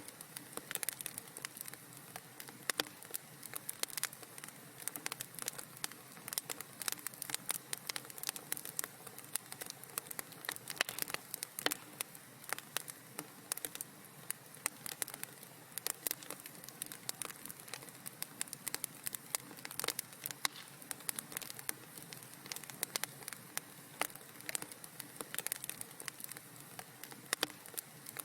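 Wood fire burning in a fireplace, crackling steadily with dense, irregular pops and snaps over a soft hiss.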